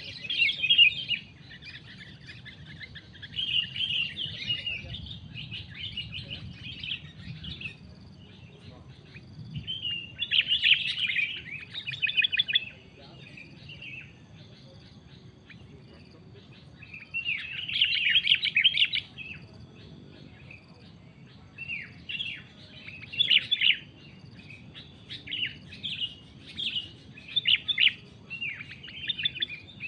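Sooty-headed bulbul (kutilang) singing in bursts of fast, chattering song, each phrase lasting a second or two with short pauses between.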